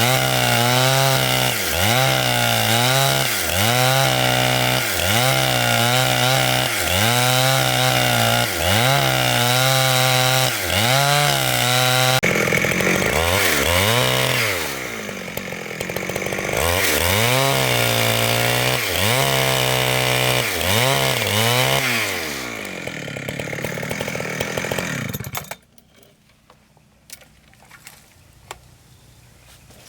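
Chainsaw cutting through thick wood, its engine pitch sagging and recovering about once a second as the chain bites under load. The saw stops abruptly about 25 seconds in, leaving quiet with a few faint clicks.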